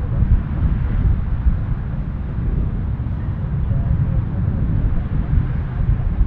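Gusty wind buffeting the microphone: a steady, fluttering low rumble.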